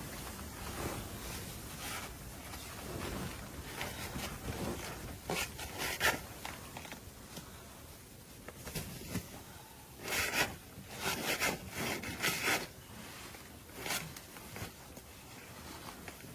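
Short rasping, scraping rubs in quick runs: a pair about a third of the way in, a denser cluster just past the middle, and one more near the end.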